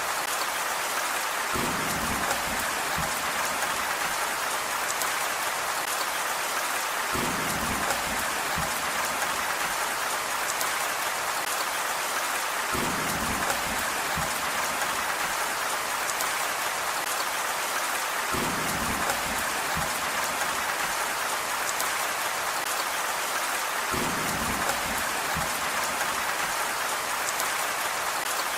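Steady rain falling, an even hiss of drops. A short low rumble comes back every five or six seconds, five times in all.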